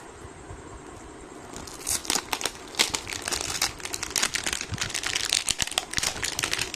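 Packaging of a perfume body spray crinkling and rustling as it is unwrapped by hand, starting about one and a half seconds in as a dense run of crackles.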